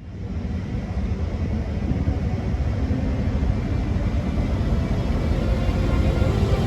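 Train running with a low rumble that grows steadily louder, as a train draws nearer.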